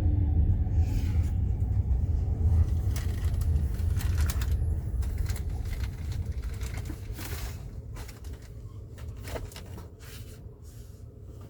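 Low rumble of a train running, fading steadily away, with a few light clicks and knocks in the middle.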